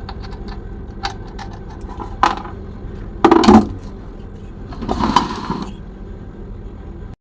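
Metal clinks and clanks of tools and refrigerator compressor parts being handled during the compressor removal. There is a loud clank about three seconds in and a rattling scrape about five seconds in, over a steady low hum.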